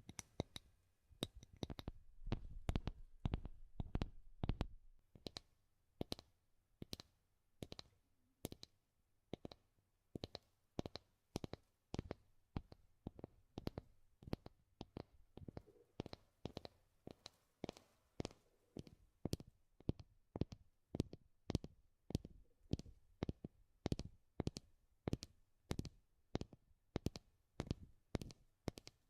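Tapping on wood for ASMR: a quick, heavier flurry of taps for the first few seconds, then slower single taps at about two or three a second.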